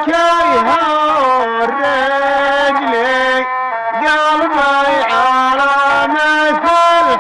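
Bedouin rababa, the one-string bowed fiddle, playing a slow melody of held notes with quick dips and slides between them.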